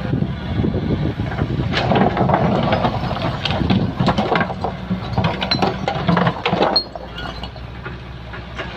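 Excavator at work: its diesel engine runs steadily under a dense run of clanks and scrapes, which drop away abruptly about seven seconds in.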